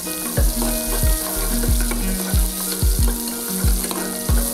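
Chopped onions and mustard seeds frying in oil in an aluminium pressure cooker. A steel spoon stirs them in regular strokes against the pot, a little under twice a second, over a steady sizzle.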